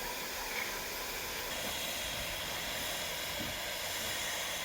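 Steam hissing steadily from the standing 1891 Robert Stephenson & Co 0-6-0 steam locomotive 'Twizell', growing a little stronger about a second and a half in.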